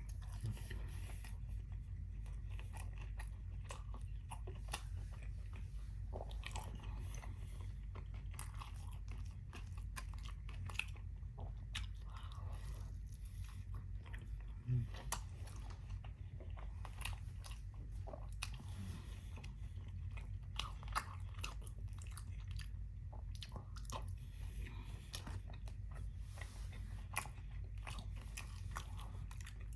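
Close-up chewing and biting of breaded fried chicken chunks, with irregular crunches and wet mouth clicks, over a steady low hum.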